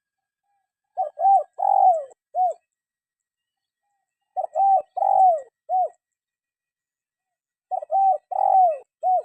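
Spotted dove cooing: three identical phrases about three and a half seconds apart, each of four arching coos with a longer, falling third note.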